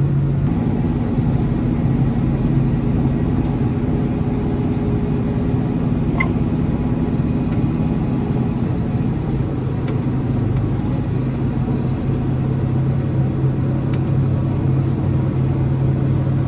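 A vehicle engine running at a steady, even drone, with a few faint clicks.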